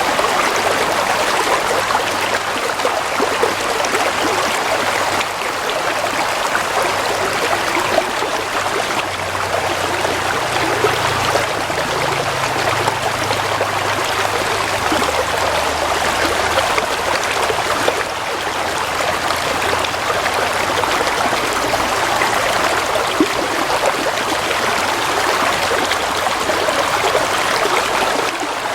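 Gently flowing water, a stream running steadily with a continuous trickling rush.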